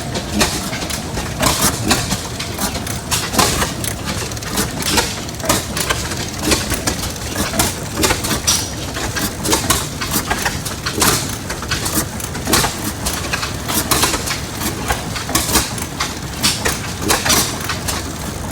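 Antique stationary gas engines running, with a rapid, irregular series of sharp exhaust pops over a steady background rumble.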